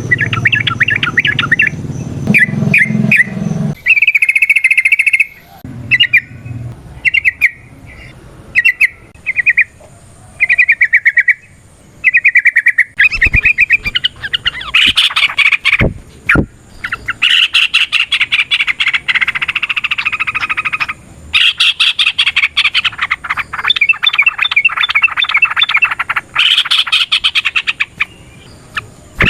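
Yellow-vented bulbul (trucukan) singing: short bubbly phrases about a second apart, then long, fast rattling chatter from about halfway through. A low rumble sits under the first few seconds.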